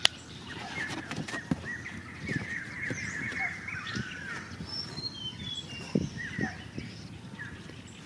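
Small birds chirping continuously in quick, short notes, with a few higher whistles in the middle. A few dull knocks come from the cardboard box being handled, the clearest about six seconds in.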